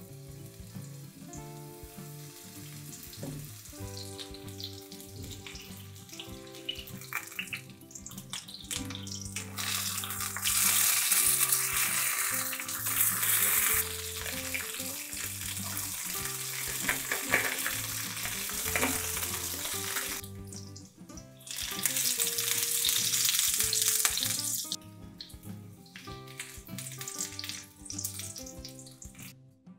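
Zucchini halves sizzling and spitting as they fry in hot oil in a frying pan. The sizzle swells loudest through the middle, dips briefly, then eases, over soft background music with held notes.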